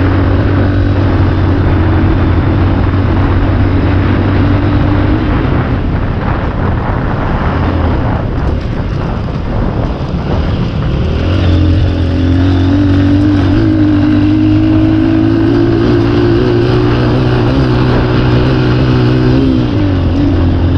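Dirt bike engine running at steady throttle while riding. Its note fades back for a few seconds partway through, then picks up again and holds, climbing slightly, before easing off near the end.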